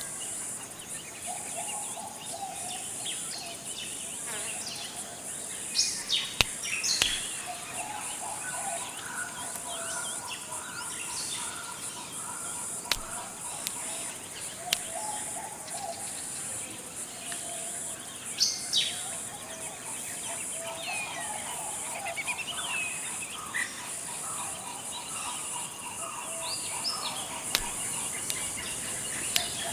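Forest ambience: a steady high insect drone with many birds calling and chirping over it, including a few short, sharp calls about six and eighteen seconds in.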